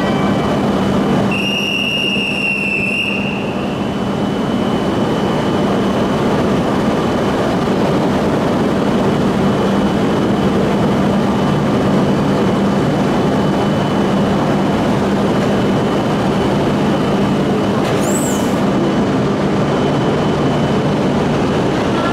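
Steady hum and hiss of JR East E5 and E6 Shinkansen trainsets standing nose to nose at a station platform with their couplers exposed. A loud electronic beep lasts about two seconds shortly after the start, and a brief high squeak comes late on.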